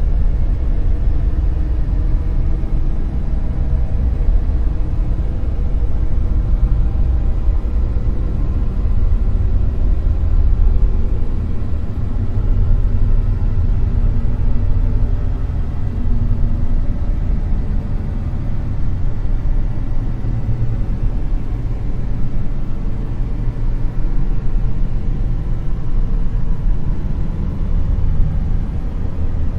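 Dark noise: a steady, deep rumbling hiss, heaviest in the bass, that swells and eases only slightly.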